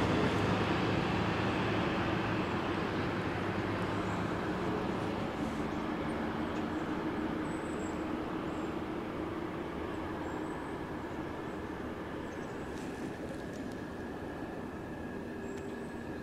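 A train rumbling away into the distance on the rails, its noise fading steadily.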